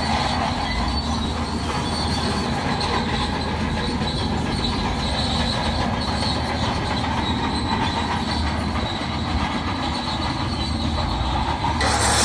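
Crawler bulldozer working, its steel tracks squealing and clanking over a steady engine drone; the sound shifts abruptly near the end.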